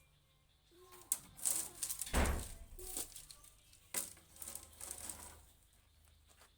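Close handling noises: scattered clicks, light rattling and crinkling, with one heavier knock about two seconds in.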